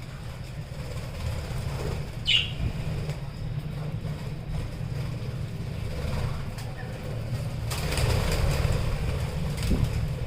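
Pet budgerigars in an aviary: one short squawk about two seconds in and a burst of wing flapping near the end, over a steady low rumble.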